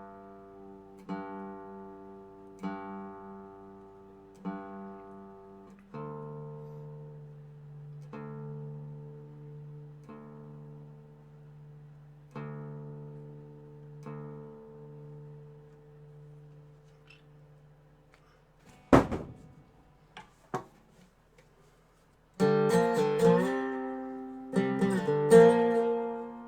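Dobro resonator guitar: single chords struck and left to ring every couple of seconds, moving to a different chord about six seconds in. Two sharp knocks follow, then loud, fast strumming near the end.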